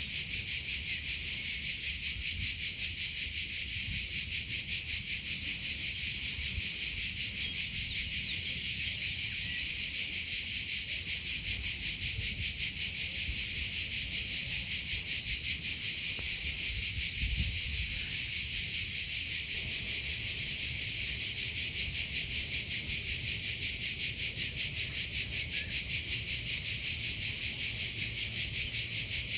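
Crickets chirping without a break, a high-pitched trill pulsing in fast, even repeats.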